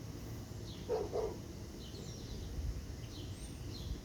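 A dog gives two short, faint barks about a second in, over steady low background noise with a few faint bird chirps.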